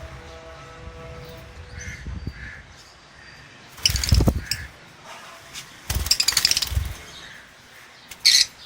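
Lovebirds screeching: two loud bursts of harsh calls about two seconds apart, each with a low thump beneath it, then one short screech near the end.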